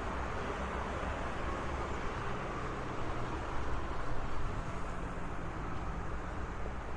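Road traffic: a steady wash of passing cars with a low engine rumble underneath.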